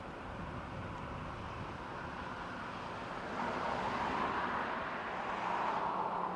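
Tugboat under way: a steady low engine rumble with the rush of water and wind, and a louder rushing noise that swells about halfway through.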